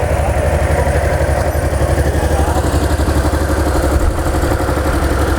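Honda DN-01's 680cc liquid-cooled V-twin idling steadily.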